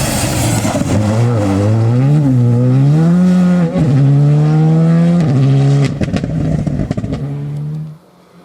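Rally car engine at full throttle, its pitch climbing and falling with the revs, a short break for a gear change about three and a half seconds in. The sound drops away abruptly near the end.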